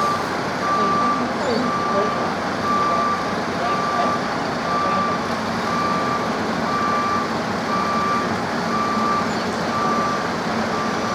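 A vehicle's reversing alarm beeping steadily, about one short tone a second, over a continuous background of engine and site noise.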